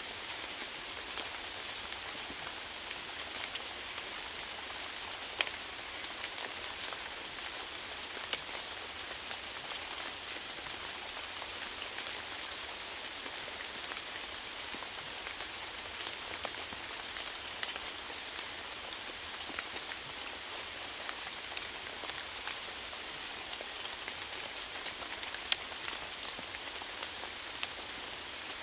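Steady rainfall, an even hiss with scattered individual drops ticking sharply on a surface.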